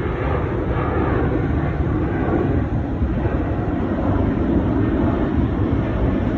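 Jet airliner engines: a steady, noisy rumble that slowly grows louder.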